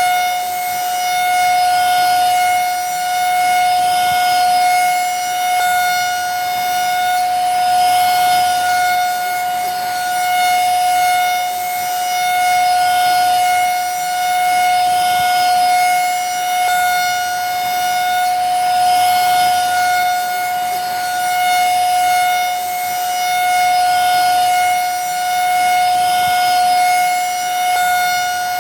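Vacuum cleaner motor running steadily, a high whine over airflow hiss, swelling and easing gently about every two seconds.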